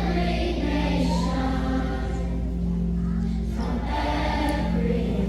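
A youth choir singing in phrases with held notes, with a steady musical accompaniment underneath.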